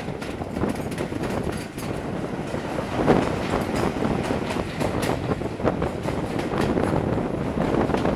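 Passenger coach of a moving train running along the track, its wheels clicking over the rails. It gets briefly louder about three seconds in as the coach passes under a road bridge.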